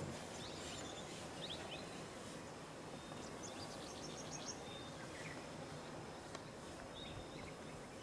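Steady, fairly quiet outdoor background noise with a few brief bouts of short, high, rapidly repeated bird chirps.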